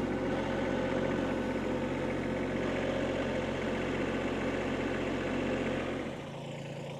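Kubota tractor's diesel engine running steadily, its note dropping lower and quieter about six seconds in.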